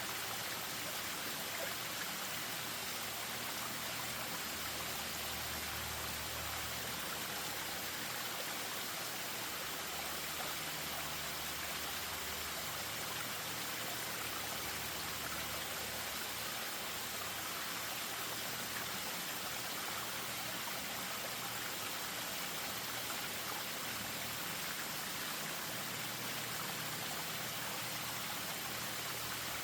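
Spring-fed stream running over a small waterfall: steady rushing and trickling water.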